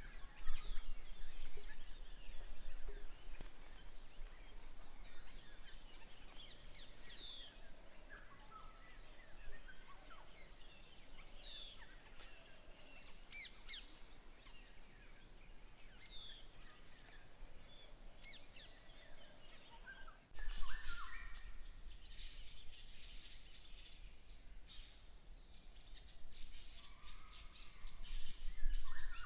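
Outdoor forest ambience with scattered short bird calls and chirps over a low steady rumble. The background changes abruptly about two-thirds of the way through.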